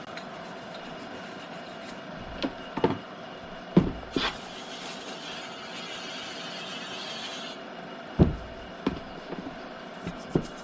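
Metal brake caliper parts and tools knocking on a workbench several times as they are handled, with an aerosol can of brake cleaner hissing for about three seconds in the middle.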